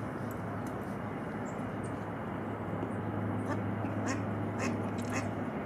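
Birds calling with short, sharp calls, scattered and faint at first, then quicker and louder in the second half at about three a second, over a steady low hum.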